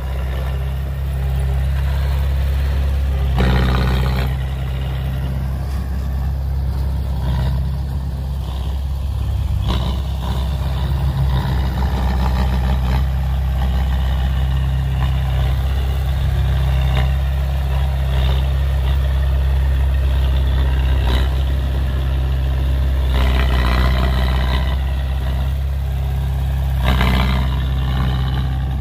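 Heavy diesel engines of dump trucks and a bulldozer running steadily, with a few brief louder spells a few seconds in and again near the end.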